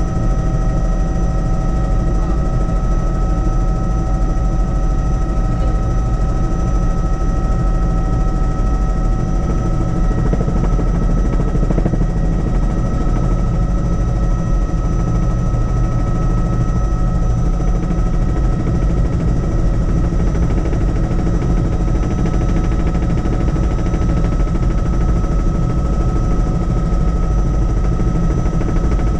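Helicopter in flight, heard from inside the cabin: a loud, steady drone of engine and rapidly chopping rotor blades, with a steady high whine over a deep rumble.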